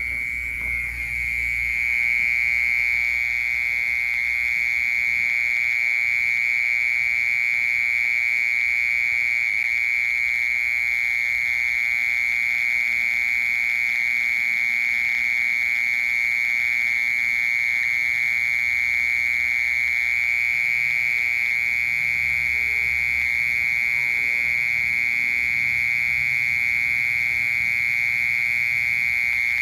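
A cricket singing one unbroken, steady, high-pitched trill that holds at one pitch.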